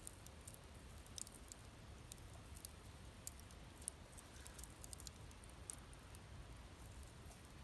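Wood fire crackling faintly, with scattered, irregular small pops and ticks over a low steady rumble.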